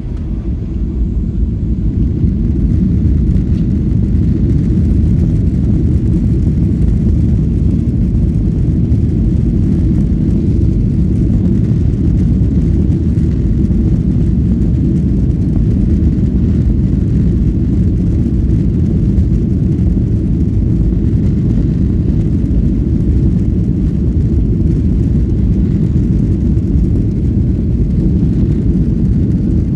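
Steady low rumble of an airplane. It grows slightly over the first two seconds, then holds even.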